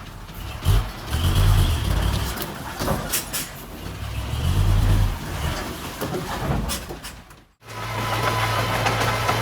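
Diesel heavy earthmoving machinery working: the engine surges unevenly, with sharp knocks and clanks. About three-quarters of the way through the sound cuts off abruptly and steady music takes over.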